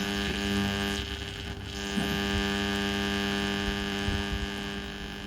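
Sansui T-3000 stereo tuner on the AM band putting out a steady electrical hum with a stack of overtones, with no programme coming through.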